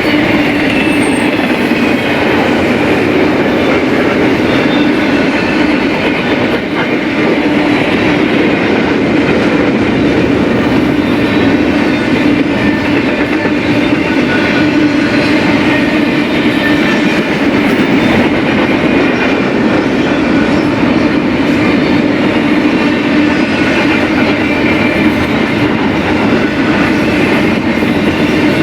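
BNSF freight train's cars rolling past: a steady, loud rumble and rattle of steel wheels on rail, with faint high-pitched wheel squeal at times.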